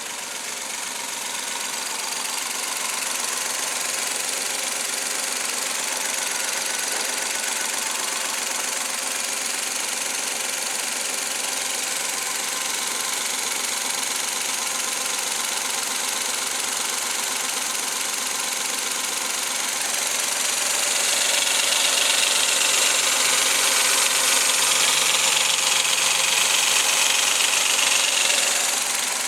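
Suzuki K6A 660 cc three-cylinder engine running steadily. It grows louder about two-thirds of the way through and drops back just before the end.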